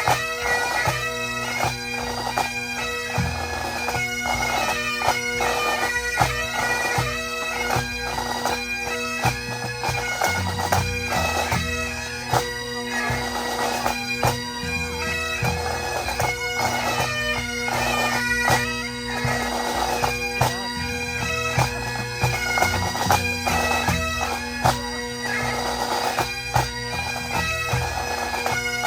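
Pipe band playing: Highland bagpipes carry a tune over their steady drones, with snare drums rattling and a bass drum beating along.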